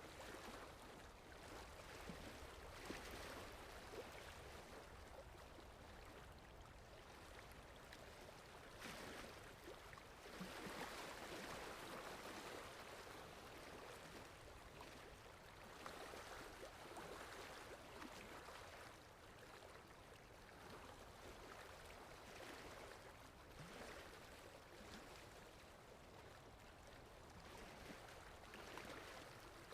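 Faint sea waves washing in and drawing back, swelling every few seconds, with the strongest surge about ten seconds in.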